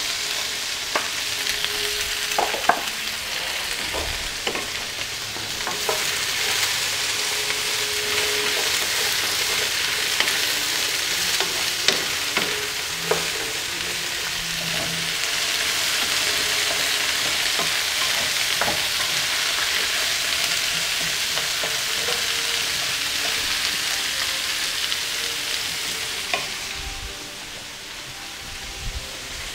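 Sliced zucchini frying in hot oil in a pan, a steady sizzle, with a wooden spoon stirring the slices and clicking against the pan now and then. The sizzle drops a little near the end.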